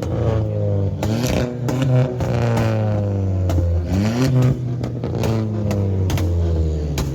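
Several vehicle engines from a group of superbikes and cars running and revving together, their pitches rising and falling over one another, with a steady low engine drone beneath.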